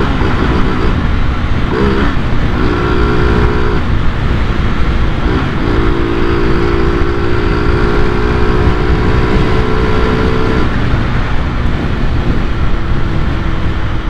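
Honda CG 125 Cargo's single-cylinder engine running on the road with its air-intake snorkel and air-filter cover removed, which gives it a growling intake note. It holds steady revs, briefly dipping and rising in pitch about two and five seconds in, over a constant wind rumble.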